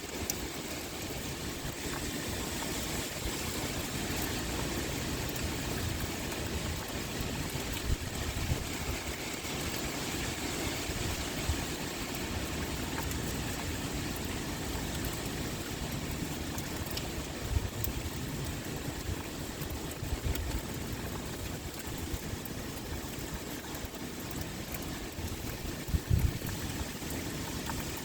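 Steady pouring rain with wind, a continuous even hiss. Brief low thumps break in a few times, the strongest near the end.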